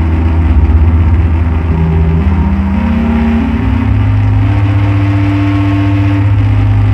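Loud electronic drone-noise music: a dense bass drone with held tones that step upward in pitch over a few seconds, the bass shifting up about halfway through.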